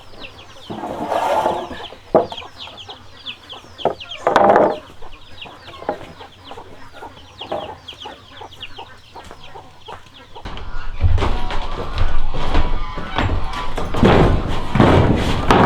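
Chickens clucking, with many rapid high peeping calls over the first ten seconds. About ten seconds in, a louder rough noise with knocks starts up.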